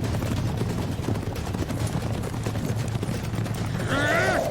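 Steady rumble of many horses galloping, a cavalry charge in an anime battle soundtrack, with a short shout near the end.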